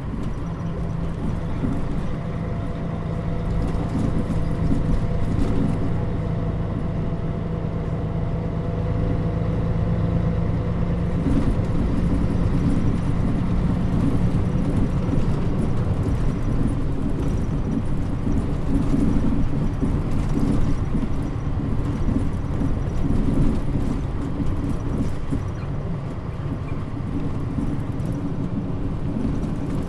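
Mitsubishi Fuso Aero Star bus (KL-MP35JM) running, its diesel engine drone and road noise heard from inside the cabin. The engine note changes about a third of the way in and then runs on steadily.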